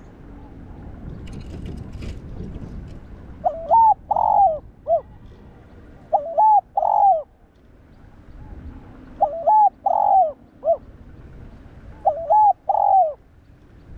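Spotted dove cooing: four song phrases about three seconds apart, starting a few seconds in, each a quick run of coos ending in a short final note.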